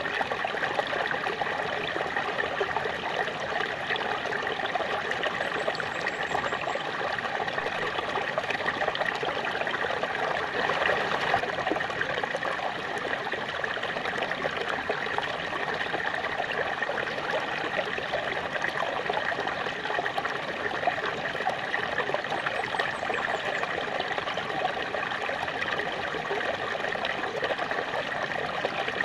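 Small waterfall splashing steadily: an even, unbroken rush of falling water.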